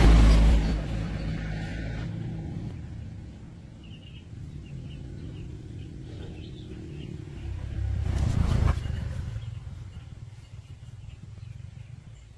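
A vehicle engine rumbling, loudest at the start and dying away, then swelling again about eight seconds in.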